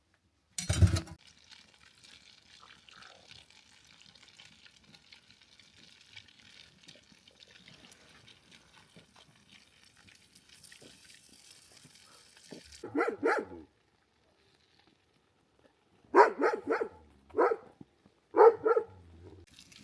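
A dog barking: a short run of barks about two-thirds of the way in, then three more sharp barks near the end. A single loud thump comes about a second in.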